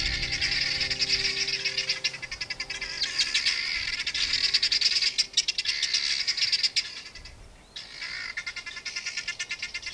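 Birds chirping in fast, rapidly repeated trills, with a short break about seven seconds in.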